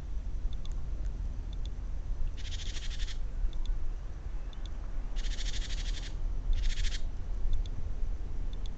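A garden bird giving a rapid, high rattling call in three bursts, the middle one about a second long, over a steady low rumble.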